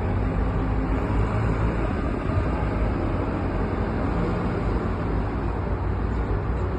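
Steady low rumble of motor vehicles, even throughout, with no distinct knocks or changes.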